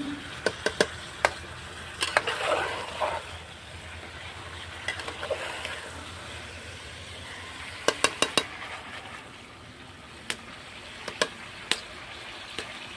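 Chicken, onion and tomatoes frying in a pan while being stirred: a steady sizzle with sharp clinks and scrapes of the stirring utensil against the pan. The clinks come in a few quick runs, in the first second and again around eight seconds in, with single ones in between.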